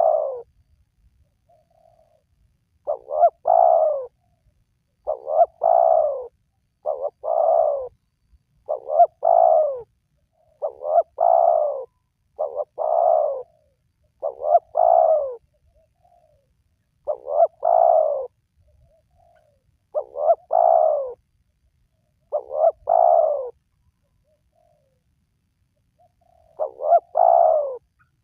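Spotted dove (tekukur) cooing: a phrase of one or two short notes and a longer falling coo, repeated about every two seconds, with a pause of a few seconds about three-quarters of the way through.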